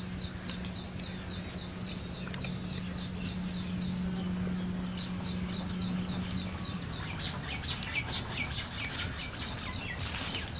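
A small bird chirping over and over, short high notes about three or four a second, with a brief pause around the middle. Under it runs a low steady hum that stops about two-thirds of the way through.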